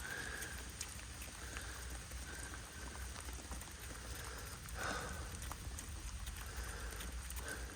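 Steady rain with scattered drips tapping on surfaces, one louder tap about five seconds in.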